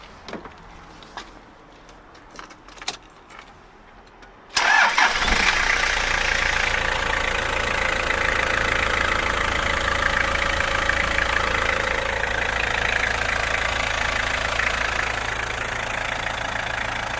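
A few faint clicks, then about four and a half seconds in the Toyota HiAce's turbo-diesel engine starts and settles into a steady idle.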